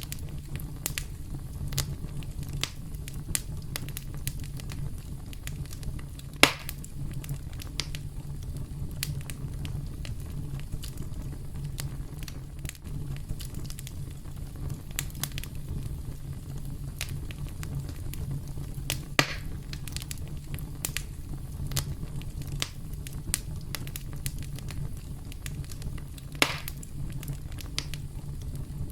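Campfire crackling over a steady low rumble of flames, with frequent small snaps and three louder pops, about six, nineteen and twenty-six seconds in.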